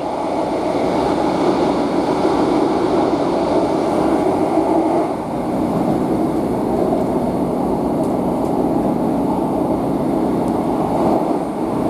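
British Rail Class 150 Sprinter diesel multiple unit under way, heard from inside the carriage: a steady drone of engine and wheels on the rails.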